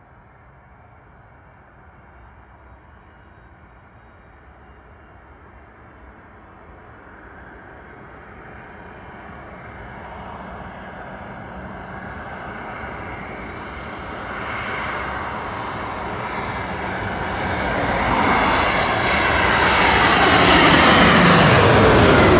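Boeing 767-200 twin-engine jet airliner coming in to land, its jet noise growing steadily louder over about twenty seconds. Near the end the whine of its engines drops in pitch as the plane passes close by.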